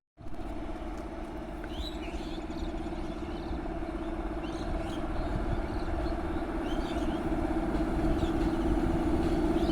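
Train running with a steady hum and low rumble, growing gradually louder as it approaches, with a few faint high chirps above it.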